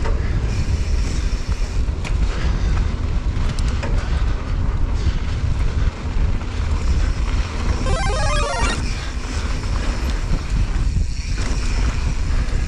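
Wind buffeting the microphone over the rumble of mountain-bike tyres rolling fast down a dirt trail, with a few short knocks from bumps. A brief pitched sound cuts in about eight seconds in.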